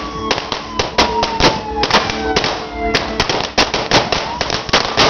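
New Year's fireworks and firecrackers going off, many sharp bangs and crackles in quick succession, with a long whistle falling in pitch during the first half.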